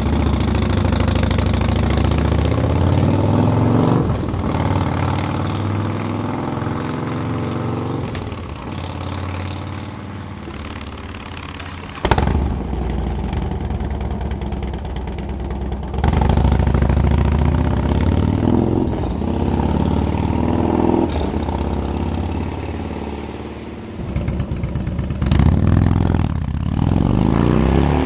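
Harley-Davidson Dyna's 96 cubic inch Twin Cam V-twin idling and being revved through 2-into-1 aftermarket exhausts, the revs rising and falling several times. The sound changes abruptly about every four seconds as separate short clips are cut together.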